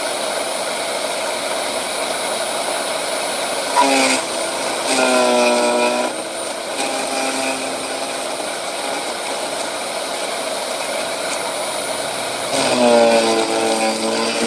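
Electric wood chipper running with a steady hum. Three times, a few seconds in, about five seconds in and near the end, it sets up a louder droning note that dips slightly in pitch, as it does when the blades chew through wood.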